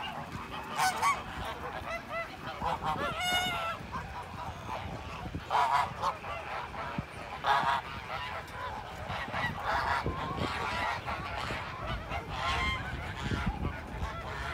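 A flock of birds calling at once, with many overlapping honking calls and louder ones standing out every second or two.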